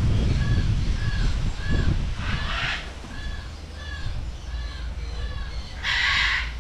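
A bird calling: a steady string of short, identical chirps about two or three a second, with two harsher, louder squawks, one about two and a half seconds in and one near the end.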